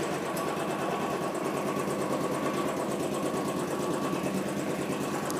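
Royal Enfield single-cylinder engine idling steadily with an even, rapid beat, running smoothly on its first start after 75 days unused.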